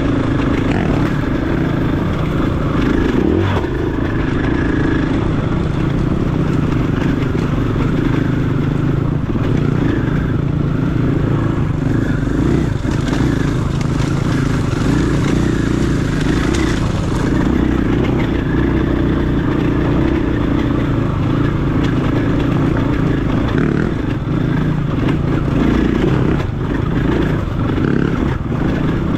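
Dirt bike engine running steadily while riding a trail, with little change in revs.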